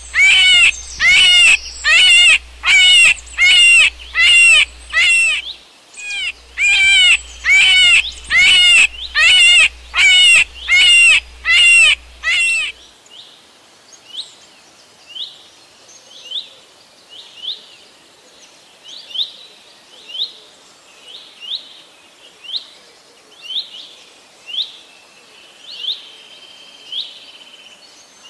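Bird calls: a loud call with several arching overtones repeated about one and a half times a second, pausing briefly partway, then giving way about halfway through to fainter short, falling chirps about once a second.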